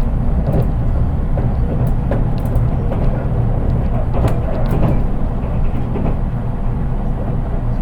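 Interior running sound of a JR East 183 series electric train, heard from inside its unpowered KuHa 183 driving trailer car. A steady rumble of wheels on rail, with a few faint clicks scattered through it. Little motor sound is heard, which makes the running sound plain.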